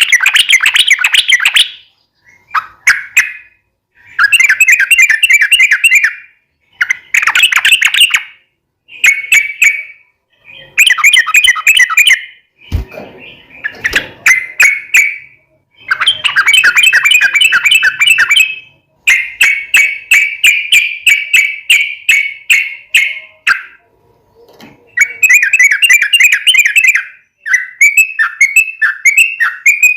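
Yellow-vented bulbul singing in loud bursts of rapid, bubbling chattering notes, each burst one to three seconds long with short pauses between, turning to separate notes at about three a second near the end. A single knock about halfway through.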